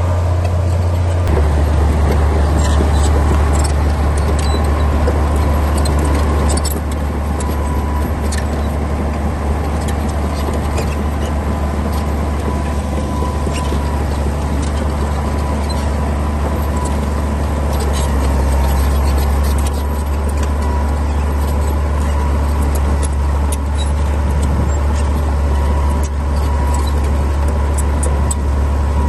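Komatsu D60P crawler bulldozer's diesel engine running steadily as it works, with many short sharp clanks throughout. The engine note shifts slightly about a second in.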